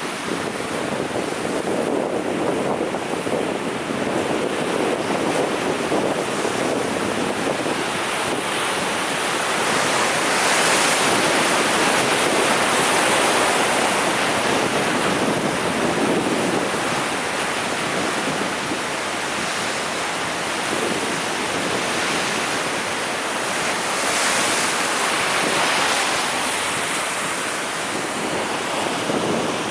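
Sea waves breaking and washing on the shore, the surf swelling louder about a third of the way in and again near the end, with wind buffeting the microphone.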